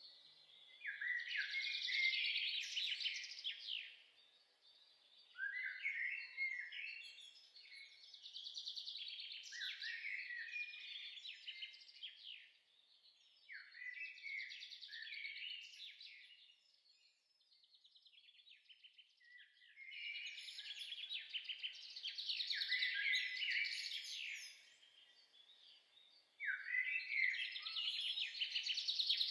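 A songbird singing in the forest: a string of quick, twittering song phrases a few seconds long, repeated with short pauses between them.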